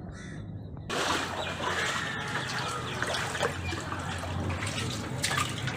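A crow caws once at the start. About a second in, loud rushing floodwater cuts in and keeps flowing steadily.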